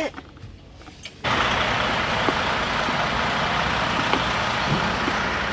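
Semi truck's diesel engine running, a loud steady noise with a low rumble that comes in abruptly about a second in.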